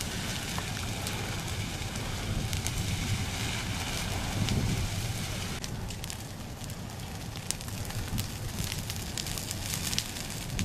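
Forest fire burning: a steady rushing noise with many sharp crackles and pops from burning vegetation over a low rumble.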